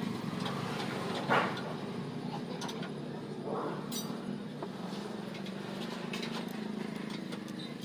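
Motorcycle engine idling steadily, with scattered light clicks and a couple of short noises over it.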